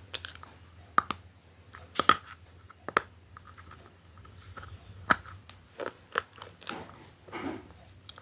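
Close-up crunchy eating: a person biting and chewing crisp food, a series of sharp crunches roughly a second apart with quieter chewing between them.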